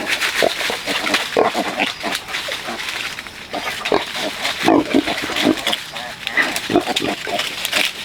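Pigs calling continuously, many short grunts and squeals overlapping one another.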